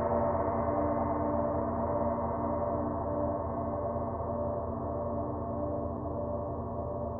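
A gong's sustained ringing wash of many overtones, slowly fading with no new strike, its higher overtones dying away first so the sound grows gradually darker.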